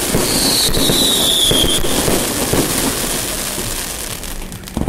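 Fireworks display: a dense, rapid crackle of many small bangs, with a whistle sliding slightly down in pitch through the first two seconds. The crackle thins out after about three and a half seconds, and one sharp bang comes just before the end.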